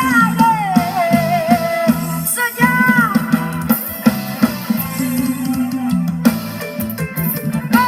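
A recorded song played back loud through loudspeaker cabinets being compared for sound. It has a singer's ornamented, wavering melody over guitar, bass and drums.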